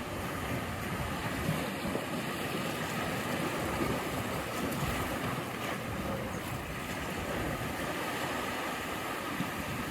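Sea waves washing against the coast, a steady rushing sound without distinct breaks.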